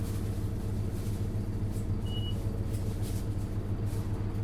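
Isuzu Erga LV290N1 city bus's four-cylinder diesel engine running steadily, heard from inside the cabin, with a short high electronic beep about two seconds in.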